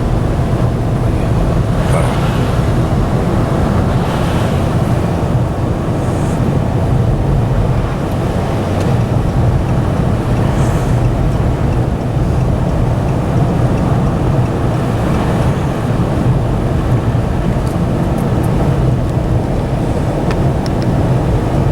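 Steady in-cab engine and road noise of a 2013 Dodge Ram 1500 with a Hemi V8, cruising on a snow-covered road, with a low, even hum throughout.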